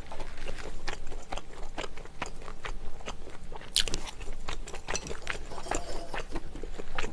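Close-miked eating sounds: chewing and mouth clicks in a rapid, irregular series, with one sharper, brighter clink or scrape a little under four seconds in.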